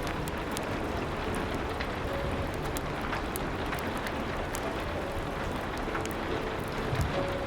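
Steady rain hiss, with sharp crackles from a wood fire scattered throughout.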